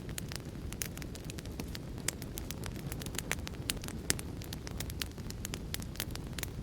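Wood fire crackling: a steady low rumble of flames with many irregular sharp pops and snaps, a few of them louder.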